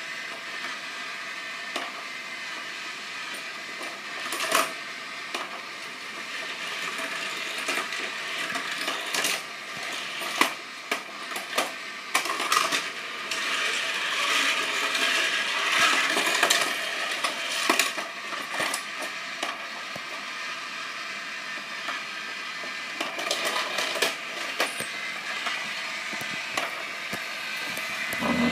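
Tomica die-cast toy cars rolling along a plastic playset track: a steady rolling rattle with many sharp clicks and clinks, busiest in the middle.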